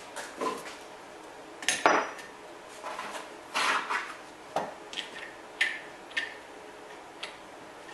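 Irregular metallic clinks and clanks, some ringing briefly, from handling an angle grinder and its small metal parts while taking off the worn-out cut-off disc to change to a flap disc.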